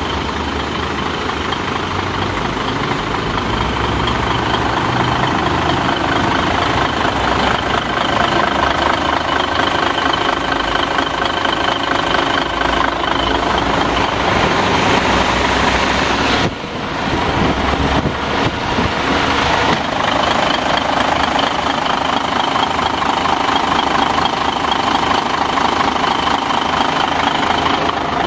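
Isuzu 6WG1 inline-six diesel engine of a 2003 tractor truck running steadily at idle, with a brief drop in level about sixteen seconds in.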